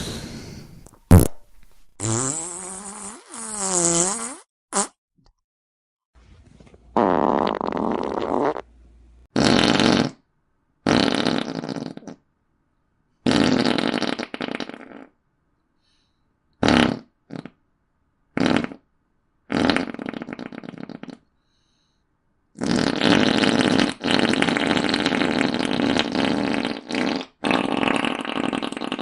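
A string of about a dozen comedy fart sound effects with short gaps between them: quick pops and longer blasts. One early fart squeaks with a wavering pitch, and the last is a long rasping one lasting several seconds.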